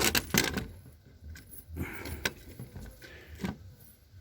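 Small metal parts of a disassembled door handle and lock mechanism clicking and clinking as they are handled: two sharp clicks at the start, then scattered lighter clicks and short rattles.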